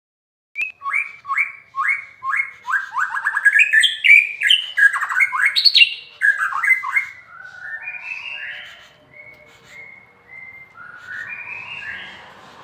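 A songbird singing loudly. It opens with a run of repeated sweeping notes about twice a second, then breaks into faster, varied phrases that grow softer near the end.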